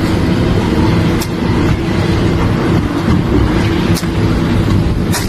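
A large engine running steadily with a low rumble, with a few sharp clicks or knocks over it.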